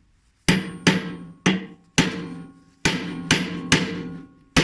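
Hammer blows on a socket set over the drum shaft of a Haier front-loading washing machine, driving the drum out of its bearing. There are about eight sharp metallic strikes, roughly two a second, each with a ringing tail.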